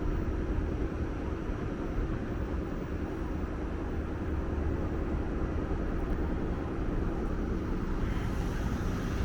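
Steady low rumble of idling transit vehicles, with no sharp sounds.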